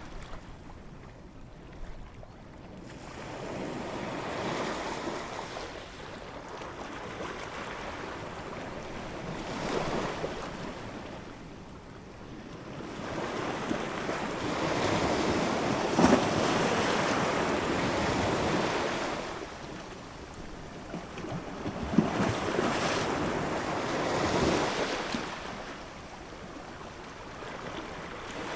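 Ocean waves breaking and washing on the shore, the surf swelling and ebbing every few seconds, with the loudest surges past the middle. A steady wind noise runs under it.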